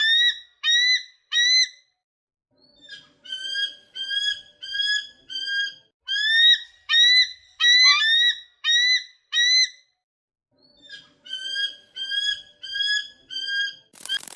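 An animal, most likely a bird, calling in bouts of short, clear notes that rise at the start and then hold, repeated a little under twice a second, with brief pauses between bouts.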